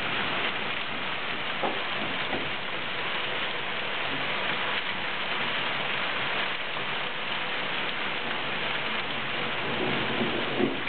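A downpour of rain mixed with small hail, a steady hiss of drops and hailstones striking the ground and a car bonnet, with a couple of sharper ticks about two seconds in and near the end.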